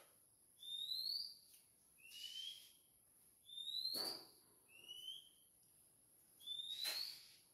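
A bird calling: about five short rising whistles, one every second and a half or so, alternating between a higher and a slightly lower pitch. Two sharp knocks, about four and seven seconds in, are about as loud as the calls.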